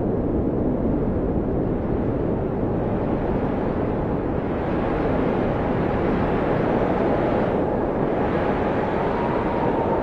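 Blizzard wind blowing hard and steadily, swelling into a stronger, hissier gust about halfway through, with a faint howling whistle near the end.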